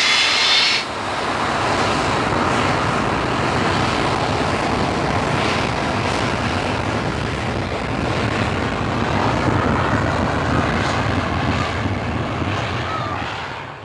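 Jet airliner's engines at takeoff thrust: a high whine stops about a second in, leaving a loud, steady rush of noise with a low rumble, which fades out near the end.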